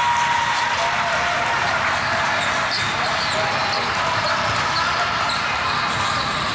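Basketball game in a gym: a ball bouncing on the court, short high sneaker squeaks and a low murmur of voices, at a steady level.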